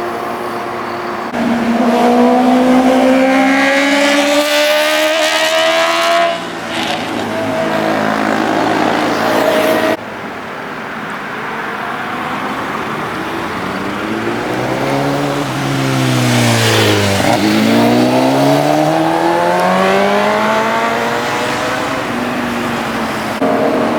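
Superbike engines at high revs, heard as several short clips with abrupt cuts between them. The engine note climbs steadily as a bike accelerates hard in the first half, and about two thirds of the way through another bike passes by with a sharp pitch drop as it goes past.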